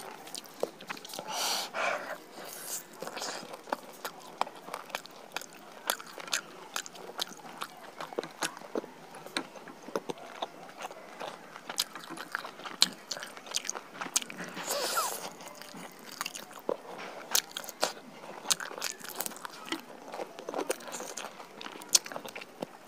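Close-miked eating of roasted chicken: biting, chewing and tearing meat with many short wet mouth clicks and crackles throughout.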